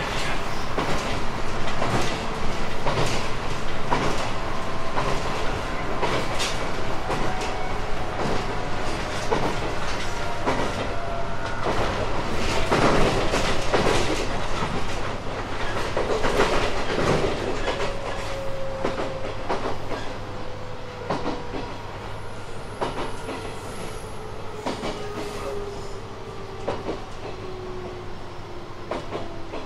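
Running sound of a JR East 719 series electric multiple unit: wheels clacking over rail joints over a steady rumble. From about halfway through, a whine falls steadily in pitch and the overall noise dies down as the train slows.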